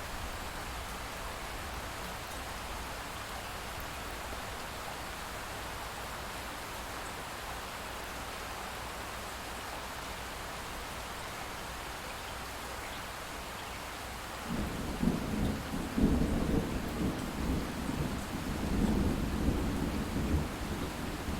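Light rain falling steadily. About fourteen and a half seconds in, a low rumble of distant thunder sets in, with a sharper peak about a second and a half later, and keeps rolling in swells.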